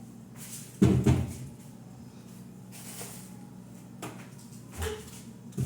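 A door or drawer shut with a loud thump about a second in, then two lighter knocks near the end, over a steady low hum.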